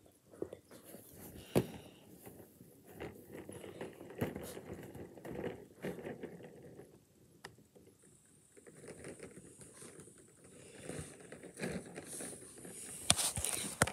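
Quiet rustling with scattered light clicks and taps, the sound of small objects being handled close to the microphone; the clicks grow louder and closer together near the end.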